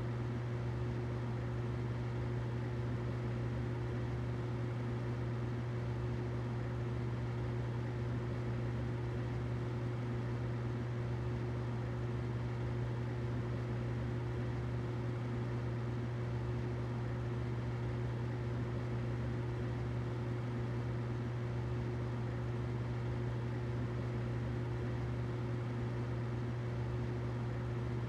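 Humidifier running: a steady low hum under an even hiss.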